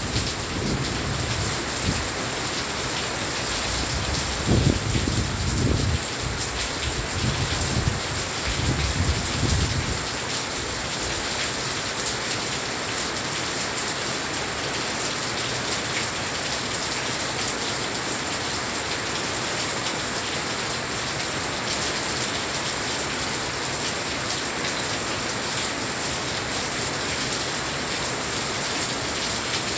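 Heavy rain falling steadily and spattering on glass balcony panels, an even hiss throughout. Low rumbles come and go during the first ten seconds.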